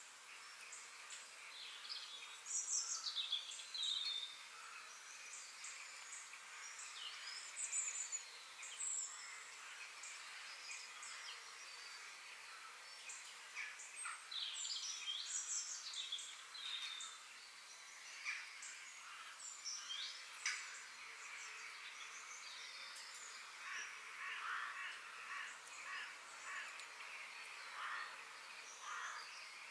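Several forest birds singing and chirping, short whistled phrases and sliding notes overlapping one another, over a faint steady background hiss.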